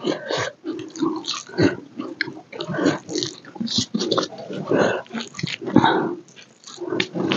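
Close-miked wet chewing and lip-smacking of a person eating rice and chicken curry by hand, an irregular run of quick smacks and clicks.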